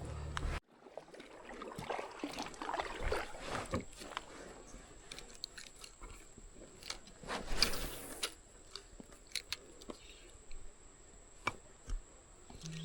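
Faint close handling noise: scattered crackles, clicks and scrapes, with a louder rustling stretch about seven to eight seconds in, over a faint steady high whine.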